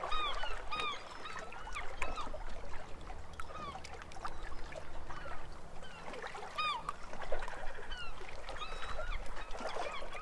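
Birds calling: short calls that rise and fall in pitch, coming in scattered groups of a few at a time.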